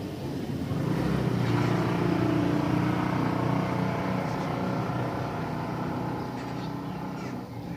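A motor vehicle's engine passing by: a low hum that grows louder about a second in, then gradually fades away near the end.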